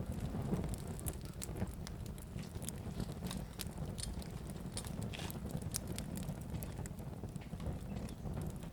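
Wood fire crackling in a fireplace: a steady low rumble of burning, with many small sharp pops and snaps at irregular intervals.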